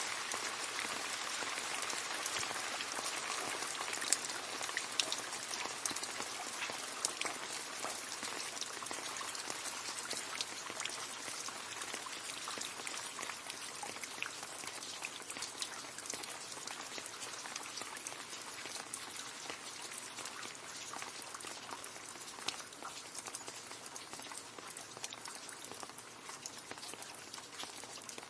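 Rain falling into a puddle: a dense patter of splashing drops with occasional louder single drips, slowly easing off toward the end.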